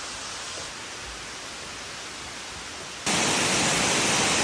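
Steady rushing of a waterfall, a constant even roar of falling water that jumps suddenly louder about three seconds in.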